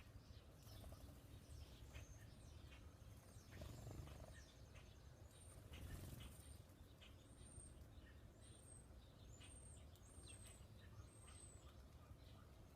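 Faint wild bird chirping: a run of short, very high chirps repeated about once a second through the second half, over a faint steady low rumble of outdoor background noise.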